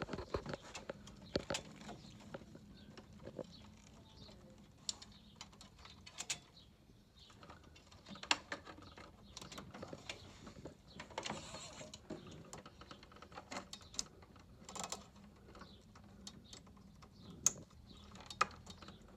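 Irregular small clicks, taps and rattles of wiring being fed through a stairlift carriage and plug connectors being pushed together.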